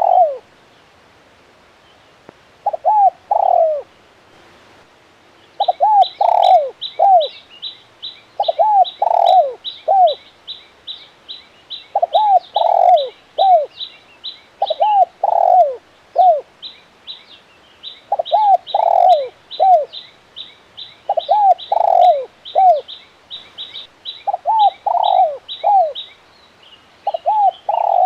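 Spotted dove cooing, a phrase of three or four notes repeated every two to three seconds. From about six seconds in, a small bird's rapid high chirps, about three a second, run under the cooing until near the end.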